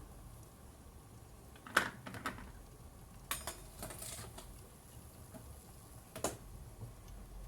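A few sharp clinks and knocks of kitchen utensils and dishes, one near two seconds in, a short cluster between three and four and a half seconds, and one more after six seconds.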